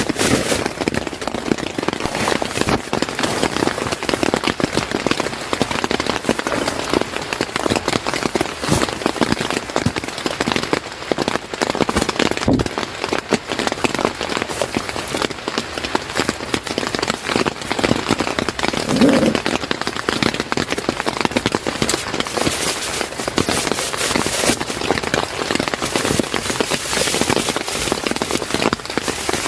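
Steady rain falling on a surface, a dense, crackling patter of drops that keeps an even level throughout.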